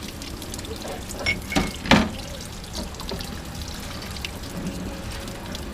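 Water running or trickling steadily, with a few sharp knocks about one and a half to two seconds in.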